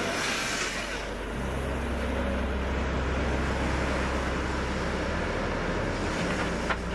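A heavy machine's engine running steadily with a low drone, a brief hiss in the first second and a sharp click near the end.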